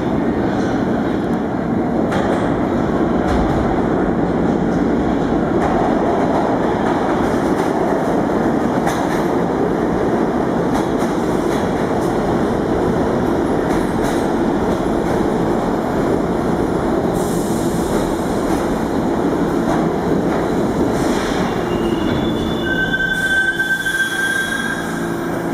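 R46 subway train running through the station with a steady, loud rumble and wheel clatter. Near the end a high-pitched steel wheel squeal comes in.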